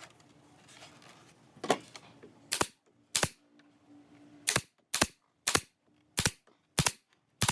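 Sharp single strikes of nails being driven into wood, about nine of them, starting about a second and a half in and coming roughly one every half second or so.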